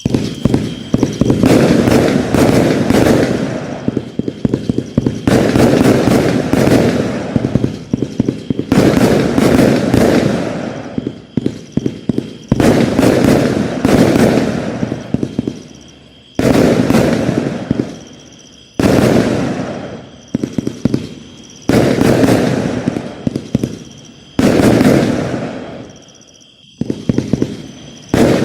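X-CITE 'Milky Way' fireworks going off in a series of about ten bursts, one every two to four seconds. Each burst starts loud and fades over a couple of seconds through a dense crackle.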